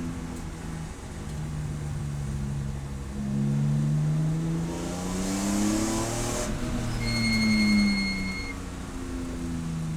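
Race car engine revving up as the car accelerates, its pitch climbing for several seconds. About six and a half seconds in it drops off and falls as the car slows, then picks up again near the end. A steady high-pitched tone sounds for about a second and a half in the latter half.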